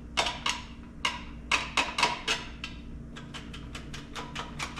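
Sharp metal clicks and clinks of hand tools and engine parts during an engine teardown: a few scattered knocks, then a quick even run of about six clicks a second over the last couple of seconds.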